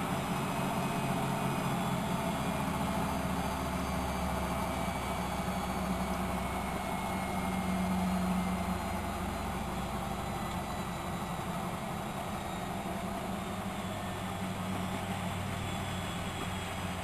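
Miele De Luxe Electronic W763 washing machine running with a steady motor hum, swelling slightly about halfway through and then easing a little.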